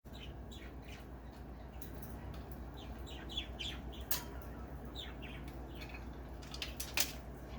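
Budgerigar chirping in a run of short, quick, downward-sliding calls, with two sharp clicks about four and seven seconds in.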